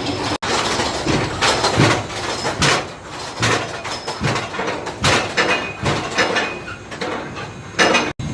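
Storm Chaser steel roller coaster's train running on its track, a loud, uneven rumble and clatter that swells and fades many times. The sound breaks off abruptly twice, about half a second in and near the end.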